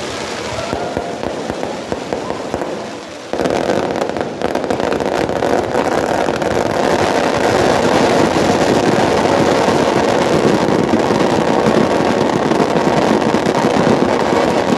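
Bonfire burning with dense, continuous crackling and popping, which suddenly gets much louder about three seconds in and stays loud.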